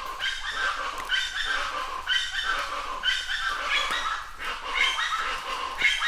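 A bird calling over and over, about once a second, each call a short yelping phrase that slides down in pitch.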